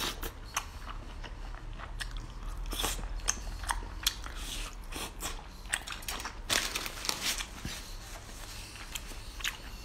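Close-up biting and chewing of skewered oysters in chili oil: a steady run of irregular sharp mouth clicks and bites.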